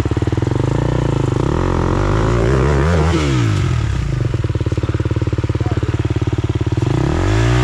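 Four-stroke single-cylinder dirt bike engine catching and running, revved up and back down twice as the rider tries to power the bike out of the boggy creek it is stuck in.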